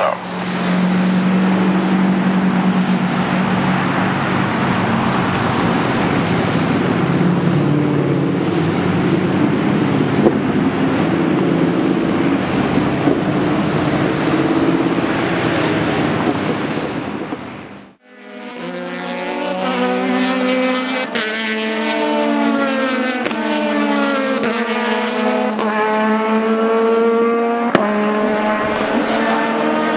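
Race car engines running hard on a track: first a dense, steady mass of engine noise, then, after a sudden break about eighteen seconds in, engine notes that climb and drop repeatedly as cars accelerate, shift gears and brake.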